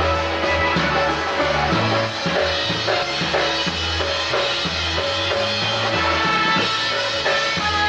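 Live polka band playing an instrumental passage: a steady bass line and drum kit keeping the beat under sustained melody notes.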